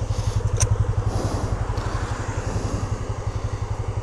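Motorcycle engine idling with a steady, even low beat of about eight or nine pulses a second. There is a brief light tick about half a second in.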